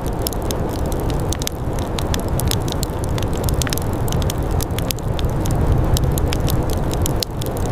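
Fire crackling: many sharp, irregular pops over a steady low rushing noise.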